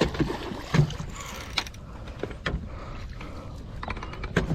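Irregular knocks and clicks of handling on a fishing kayak, over a low wash of water, while a hooked fish is being fought.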